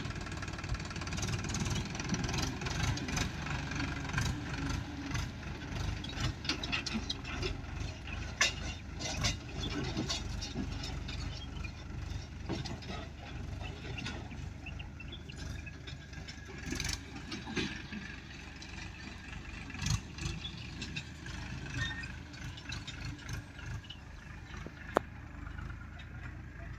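Diesel engine of a farm machine running steadily, with irregular knocks and clattering over it and one sharp click near the end.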